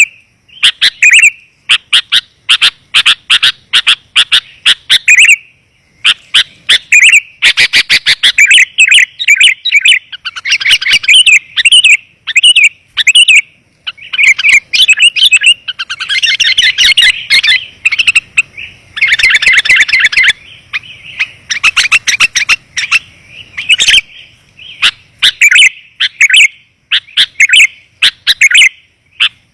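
Sooty-headed bulbul (kutilang) calls in rapid, loud runs of short chirps with only brief pauses: a dense, clear lure call recording meant to draw wild bulbuls in.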